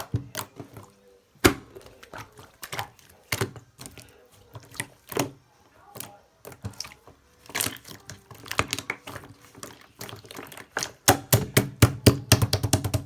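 Slime being pressed, poked and squished by hand, giving a string of sharp clicks and air-bubble pops, irregular at first and coming thick and fast near the end.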